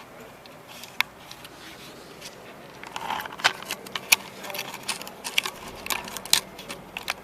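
Light metal clinks and knocks of tools and loose hardware being handled on a cooler's compressor mount. There is a single click about a second in, then a quick irregular run of clinks from about three seconds in.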